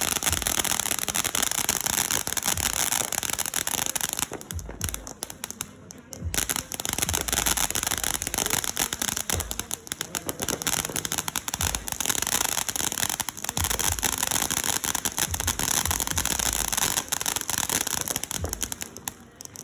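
Fireworks going off: a dense, continuous crackling of rapid pops, thinning out briefly about four to six seconds in.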